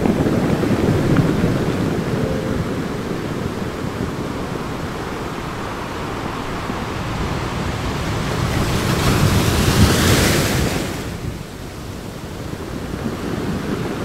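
Ocean surf: a steady rushing wash of waves, with one wave swelling and breaking about ten seconds in, then dropping away.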